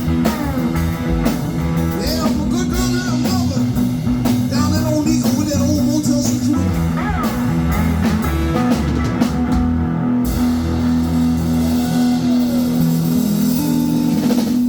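Cigar box guitar playing blues, with sustained low notes and sliding pitches, continuous throughout.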